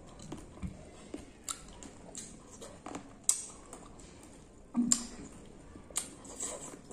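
Red grapes being bitten off the bunch and chewed: irregular wet squishes and sharp crunches, loudest about a third of the way in and again a little past halfway.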